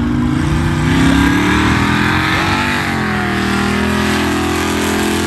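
Drag-race car engine at full throttle accelerating down a wet strip, its pitch climbing, dipping about three seconds in, then holding high.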